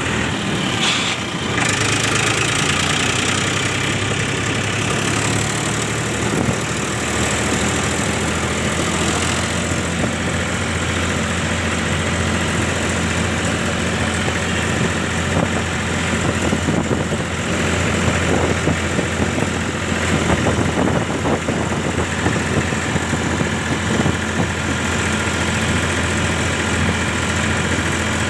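Powertrac Euro 50 tractor's diesel engine running steadily at a constant, idle-like speed, with a low hum and no change in pitch.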